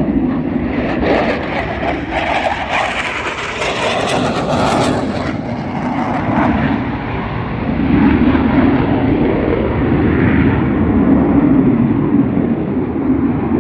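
Aircraft engine roar as an airplane flies past, swelling brighter a few seconds in and staying strong near the end.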